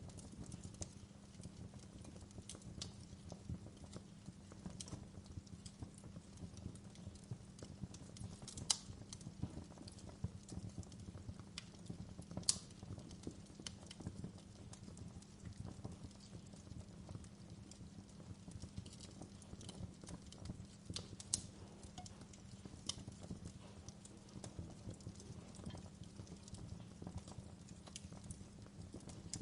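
Wood fire burning in a fireplace: irregular crackles and sharp pops over a low steady rumble, with a few louder pops now and then.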